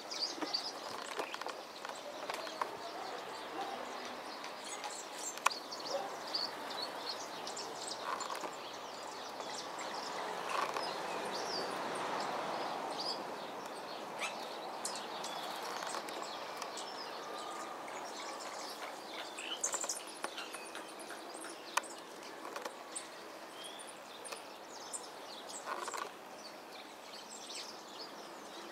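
A group of birds chirping and calling in short, scattered high notes over a steady background of outdoor noise, with a few sharp clicks.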